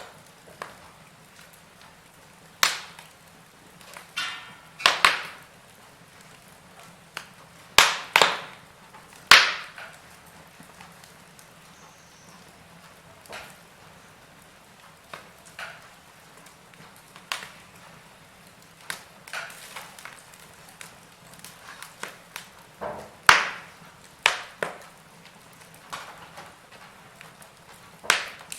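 Wood fire in a fireplace crackling, with irregular sharp pops and snaps every second or two over a faint steady hiss. A cluster of louder pops comes about a third of the way in.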